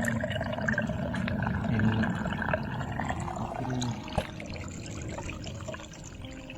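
Water pouring and trickling, with a sharp click about four seconds in.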